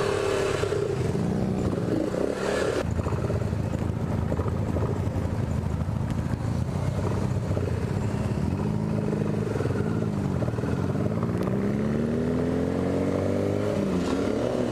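Motorcycle engine running on the move, its pitch rising and falling several times as the throttle opens and closes.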